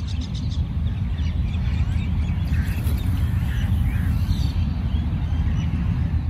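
Many birds chirping, over a loud, uneven low rumble.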